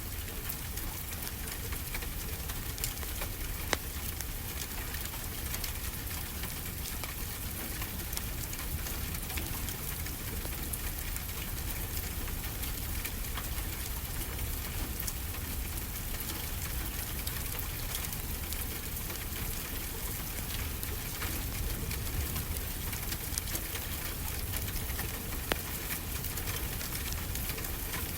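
Mixed ambience of ocean surf and a crackling wood fire: a steady hiss over a low rumble, with scattered sharp pops and crackles from the fire.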